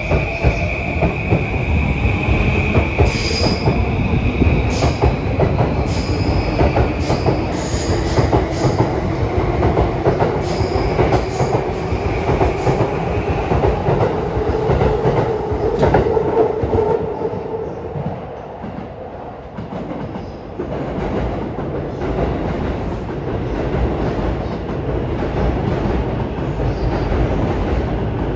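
Electric commuter train pulling away from the platform: a motor whine rising in pitch as it accelerates, a high wheel squeal, and rail-joint clicks. The sound falls away at about 18 seconds, then steady train rumble builds again.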